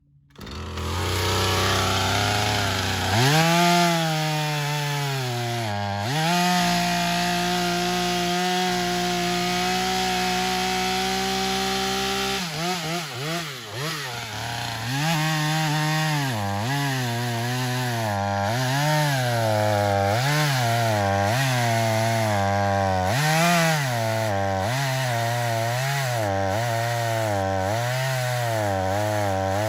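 Chainsaw engine running: it comes up to speed about three seconds in and holds a steady high speed for several seconds. From about twelve seconds in, the engine speed dips and recovers over and over, about once a second, then falls away at the very end.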